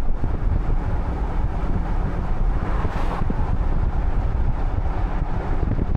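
Wind buffeting the microphone over the running noise of a vehicle: a loud, steady, fluctuating rumble.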